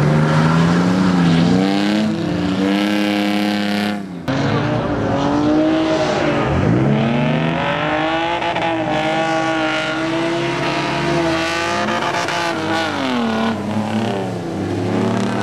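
Car engines revving hard as the cars slide through corners, the engine note rising and falling again and again, with a sudden break about four seconds in and a deep drop and climb of the revs a couple of seconds later.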